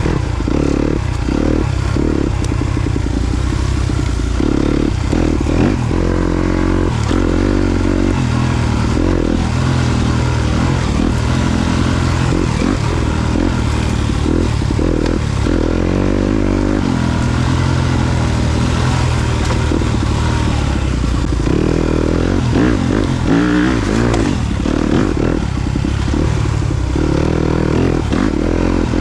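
Yamaha YZ250FX four-stroke single-cylinder engine being ridden off-road, its pitch rising and falling again and again as the throttle is opened and closed.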